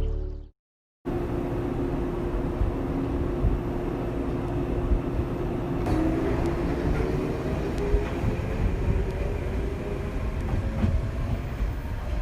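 A vehicle running: a steady rumble that starts about a second in after a brief silence, with a faint whine that rises slowly from about six seconds in.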